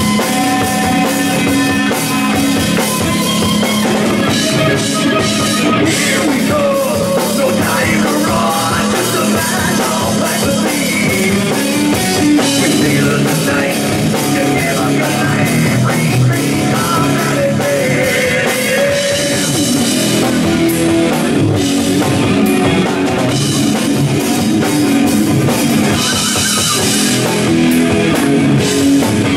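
Rock band playing live, with a drum kit and electric guitar keeping up a steady, loud drive.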